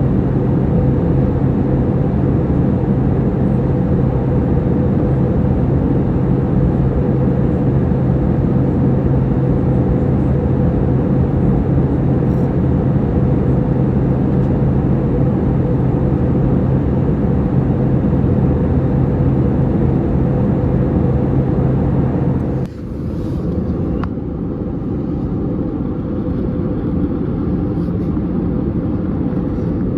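Steady cabin noise of an Airbus A320neo in cruise: the rush of engines and airflow with a low steady hum. About two-thirds of the way through the hum drops out and the noise becomes a little quieter.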